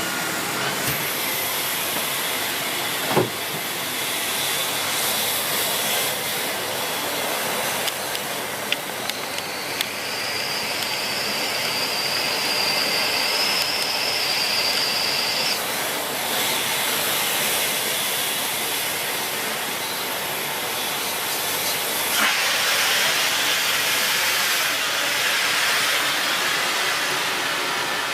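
Miele S6 Cat and Dog cylinder vacuum cleaner with its 2000 W motor running steadily, the airflow giving a continuous hiss. A few clicks come in the first ten seconds, a faint high whistle sounds for about five seconds in the middle, and the airflow turns brighter and hissier about 22 seconds in.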